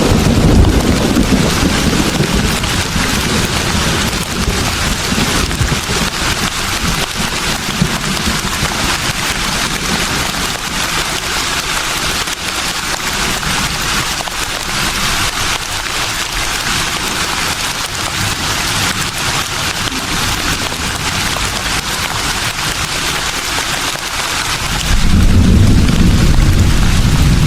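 Wind blowing through leaves, giving a steady rustling hiss. A deep rumble comes in near the end.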